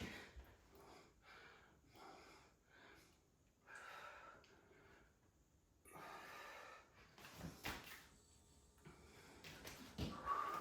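A woman breathing hard and irregularly, out of breath from burpees, with a louder breath near the end.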